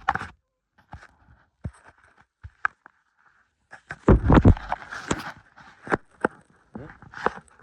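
Irregular crunching and scraping of footsteps and rummaging in deep snow, with a louder cluster of crunches about four seconds in.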